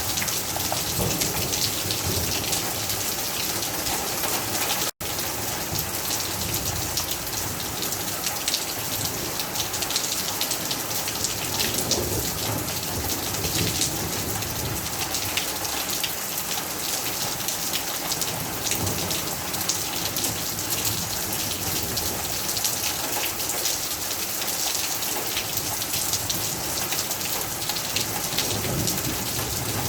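Rain falling steadily, a dense, even patter of drops on surfaces. The sound cuts out for an instant about five seconds in.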